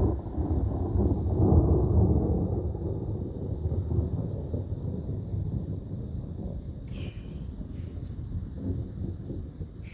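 A long rumble of thunder, loudest a second or two in and slowly dying away, over crickets trilling steadily.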